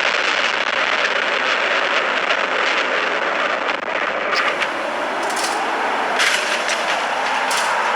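Steady road and traffic noise as picked up by a dash cam, with a few short, sharp noises in the second half.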